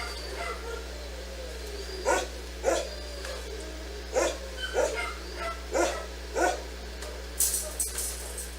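A dog barking: about six short barks spaced roughly half a second to a second apart, followed near the end by a brief hissy burst of noise, all over a steady low hum.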